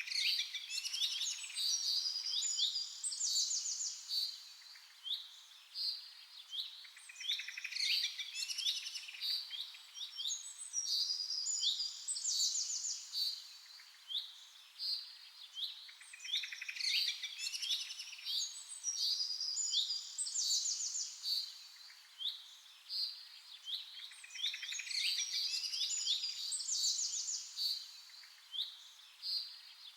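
Several small songbirds chirping and trilling in quick, high phrases. The song swells about every eight seconds and thins out between.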